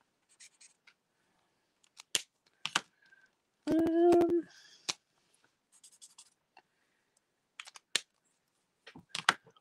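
Plastic marker caps clicking off and on and markers knocking against the desk while colours are tried out, with a short hummed 'mm' about four seconds in.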